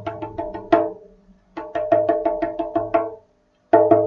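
Rapid wooden tapping that imitates a woodpecker drumming, about seven taps a second with a pitched, knocking ring. It comes in three short runs with brief pauses between them.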